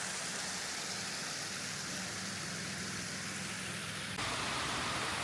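Steady rush of water pouring down a stream cascade, an even hiss with no single splashes; about four seconds in it turns slightly louder and fuller at a cut to another shot.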